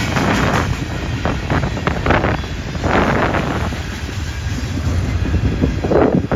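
Freight cars rolling past at trackside: steady noise of steel wheels running over the rails, with wind buffeting the microphone and a few brief louder swells about two, three and six seconds in.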